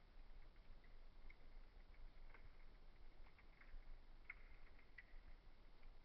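Wood fire in a fireplace crackling faintly: sparse small pops and snaps over a low hiss, more of them in the second half.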